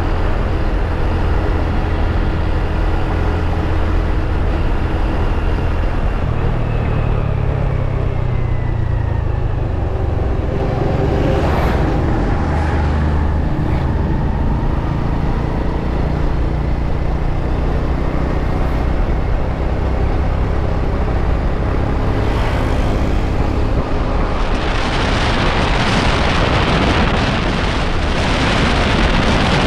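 Motorbike running steadily on the road, its low engine sound mixed with road and traffic noise and a few vehicles passing. Near the end a louder rushing hiss, like wind on the microphone, comes in over it.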